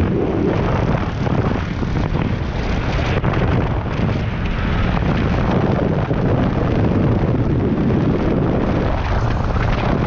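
Bus powered by a race-car engine running as it drives, a steady low rumble with wind buffeting the microphone.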